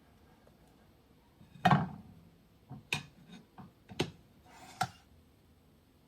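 A series of short knocks and clicks from objects being handled: one louder knock about two seconds in, then about six lighter clicks over the next three seconds.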